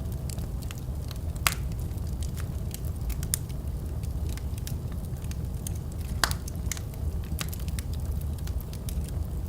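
Wood fire crackling in a fireplace: a steady low rumble of the flames with irregular sharp pops and snaps, two louder pops about a second and a half in and again about six seconds in.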